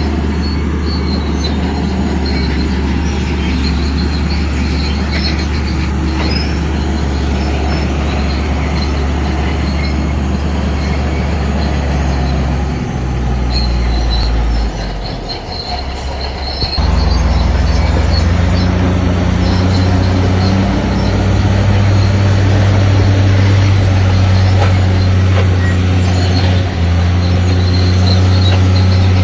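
Shantui crawler bulldozer working: its diesel engine runs steadily under the high squeaks and clatter of its steel tracks. About halfway through the engine eases off, then picks up again, louder and higher, for the rest.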